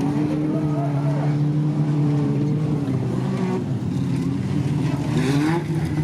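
Banger race cars' engines running at a steady pitch, then revving up with a rising pitch about five seconds in as the field accelerates.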